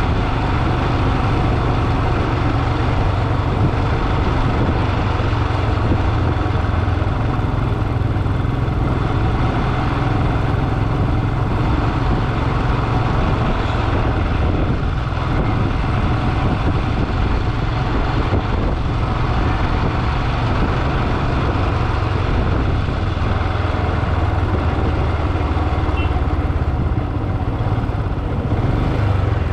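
Motorcycle engine running steadily on the move, with a constant low rumble of road and wind noise.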